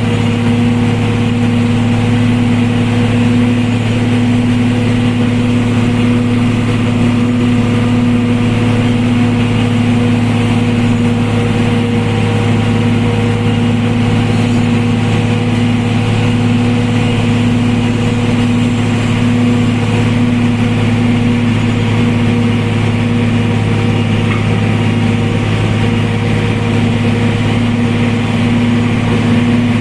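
Vehicle engine running at a steady, unchanging speed: a constant low drone with no revving.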